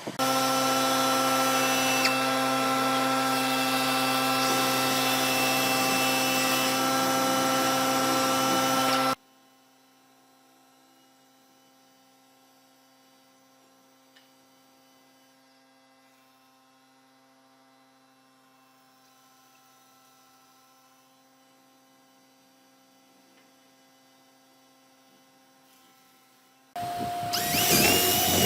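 An electric power tool runs loud and steady, its pitch unchanging, for about nine seconds, then cuts off suddenly. Near silence with a faint hum follows, until a power tool starts up near the end and rises quickly to a higher steady pitch.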